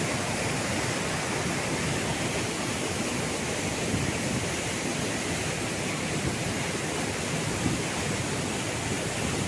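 Waterfall rushing, a steady, even noise with no distinct events.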